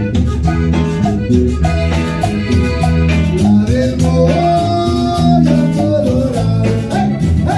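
A live norteño band playing, with a steady beat, a bouncing bass line and a melody on top.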